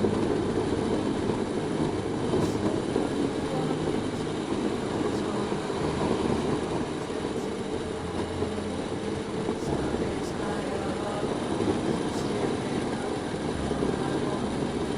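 Motorcycle on the move: a steady mix of engine and wind noise with no clear changes.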